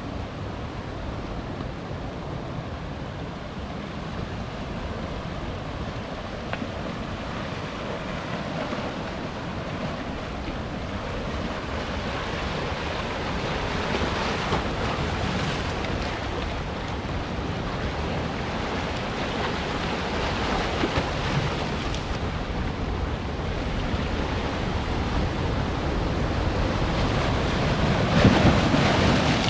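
Ocean surf breaking on rocks: a steady wash that swells several times and surges loudest near the end. Wind buffets the microphone.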